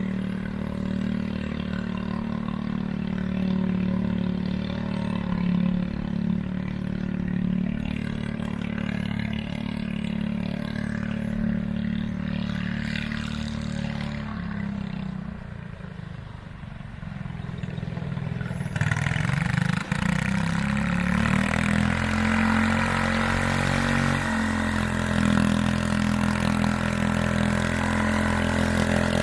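John Deere 210 garden tractor engine running steadily. It slows and quietens about halfway through, then picks up again, and a louder rushing sound joins it.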